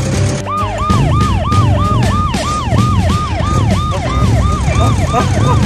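Police siren in rapid yelp mode, starting about half a second in and sweeping up and down about four times a second. A second siren joins near the end, out of step with the first.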